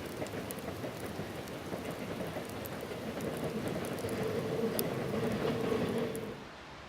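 Food sizzling on a hot iron griddle, a steady frying hiss with scattered pops and spits, cutting off suddenly near the end.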